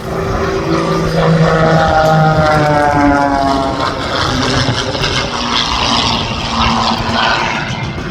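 Propeller airplane flying past, its engine note sliding steadily down in pitch as it goes by, then settling into a steadier drone.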